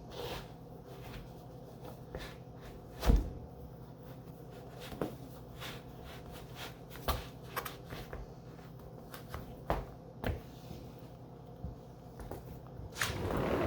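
Scattered knocks and clicks of objects being handled in a small room, with one louder thump about three seconds in and a louder rustling rise near the end.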